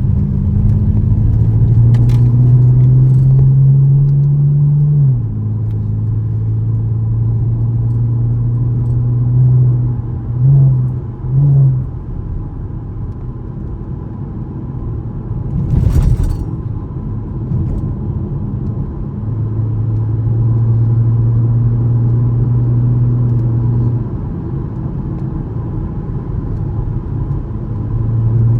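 2013 Camaro LS's 3.6-litre V6 pulling through the gears in manual mode. The engine note climbs, then drops at an upshift about five seconds in. Two short rev blips come around ten seconds in, and a single sharp thump at about sixteen seconds, before the engine settles into a steady drone.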